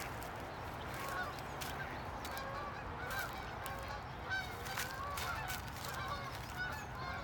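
Many waterfowl calling together at a pond, a dense chorus of short overlapping honks, with a steady low rumble underneath.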